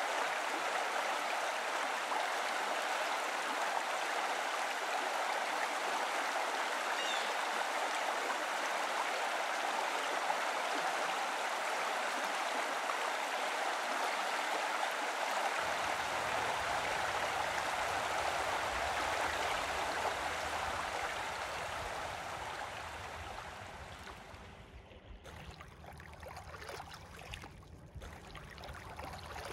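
A steady rushing noise, like running water. A low rumble joins about halfway through, and the rushing fades away over the last several seconds.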